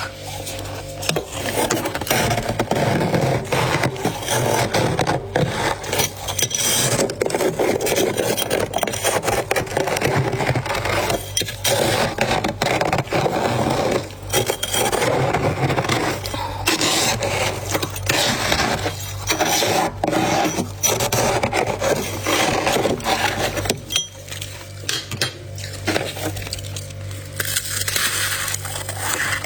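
Close-up crunching and crackling of frost being chewed and handled, a dense run of small cracks that eases off near the end, over a faint steady hum.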